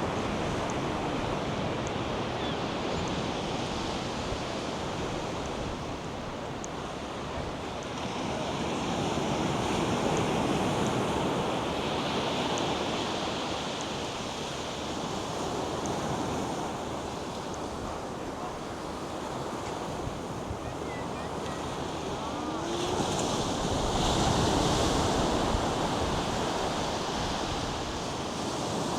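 North Sea surf washing onto a sandy beach, a steady rush of breaking waves that swells louder about a third of the way in and again later on, with wind buffeting the microphone.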